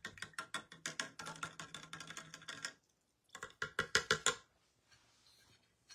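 Dotting tool being cleaned: fast, light clicking and tapping, about seven or eight strokes a second, that stops about three seconds in and starts again briefly for about a second.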